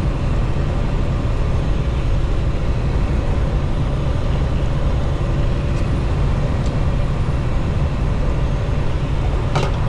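Steady low rumble of a semi truck's engine and road noise heard inside the cab while driving at highway speed, with a brief click near the end.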